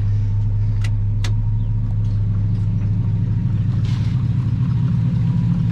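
Square-body pickup truck engine idling steadily just after starting, with a couple of light clicks about a second in.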